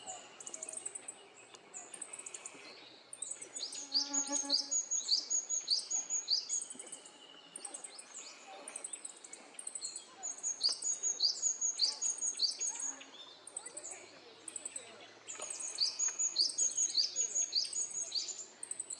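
Small songbird singing: three bursts of rapid, repeated high chirping notes with quieter gaps between.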